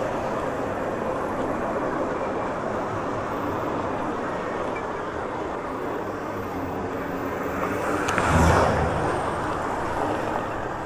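Steady road and traffic noise, growing louder for about a second around eight seconds in.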